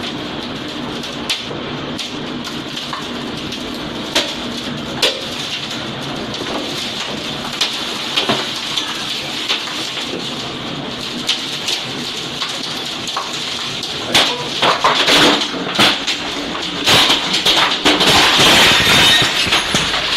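Heavy rain in a severe storm, a steady rush with scattered sharp knocks that come thicker and louder in the last several seconds.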